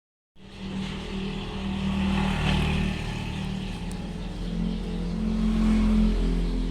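48-inch Caribbean ceiling fan running: a steady motor hum with a rush of air, starting about a third of a second in.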